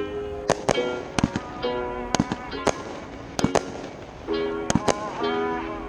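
Consumer-grade (1.4G) aerial fireworks bursting: about a dozen sharp bangs at irregular intervals, some in quick pairs. Background music with repeated short notes plays underneath.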